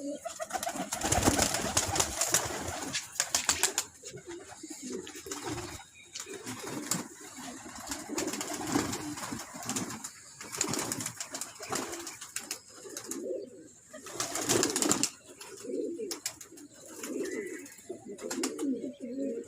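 Domestic pigeons cooing repeatedly in low, wavering calls. Several loud, brief rustling bursts break in, the longest in the first few seconds.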